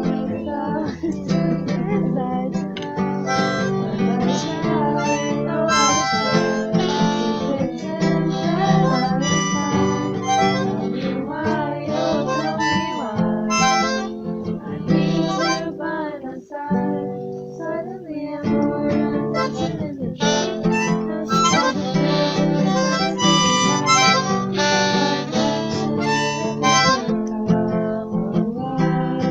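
Harmonica played live over a strummed acoustic guitar, keeping in rhythm with it, with a short break in the playing about halfway through.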